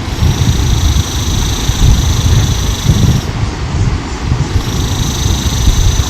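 Seashore wind and surf, with a heavy wind rumble on the microphone. Over it runs a high, steady buzz that cuts out a little after three seconds in and comes back about a second later.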